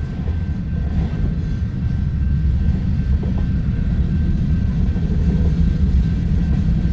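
Freight cars rolling past on the rails: a steady low rumble of wheels and trucks, growing slightly louder.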